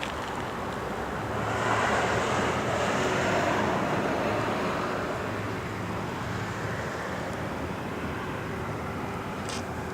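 A passing vehicle: its noise swells for a couple of seconds, then slowly fades over a steady low hum.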